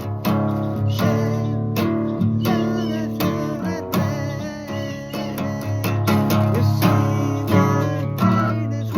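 Acoustic guitar strummed in a steady rhythm of chords, a solo cover of a rock song.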